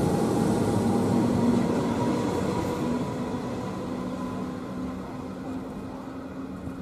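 Comeng electric suburban train departing the platform. Its wheels and motors make a steady running noise with a low hum, fading steadily as it pulls away.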